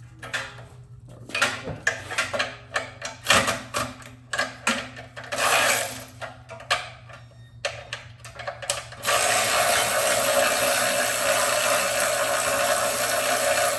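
Irregular metallic clicks and clatter of tools working on the gas tank mounting of a Graco airless sprayer's Honda GX engine. About nine seconds in, a steady, louder mechanical whir starts and runs for about five seconds.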